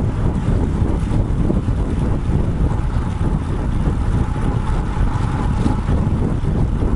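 Wind buffeting the microphone of a bike-mounted action camera while riding a road bike: a loud, steady rumble with no breaks.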